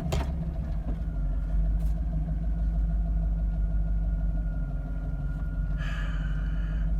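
2009 Cadillac Escalade's V8 engine running with a steady low rumble, soon after a cold start; the owner suspects a misfire from a rear spark plug or coil. A brief higher-pitched sound with several tones comes in near the end.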